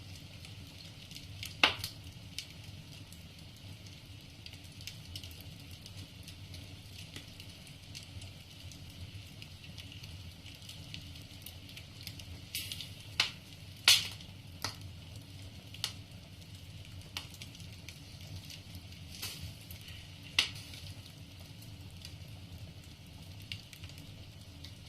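Wood fire crackling in a fireplace: irregular sharp pops of burning logs, a louder one about two seconds in, a cluster of them around the middle and another near twenty seconds, over a steady low rumble of the flames.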